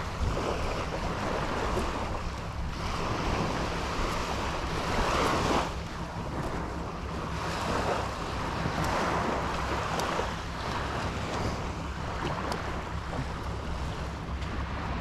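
Surf breaking and washing up the beach, swelling and fading every few seconds, with wind buffeting the microphone.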